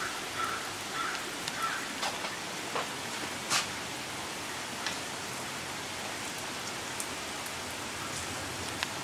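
Rain falling steadily, an even hiss with scattered louder drips and splashes landing close by, the sharpest about three and a half seconds in.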